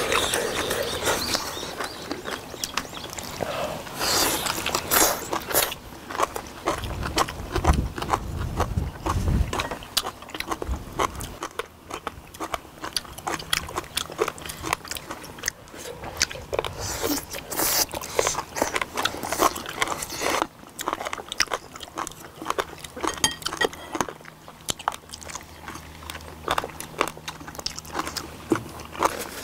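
Close-miked chewing and biting of braised sea squirt, with many small wet clicks and smacks of mouths and chopsticks; the sea squirts burst as they are bitten. A few low thumps come about eight to ten seconds in.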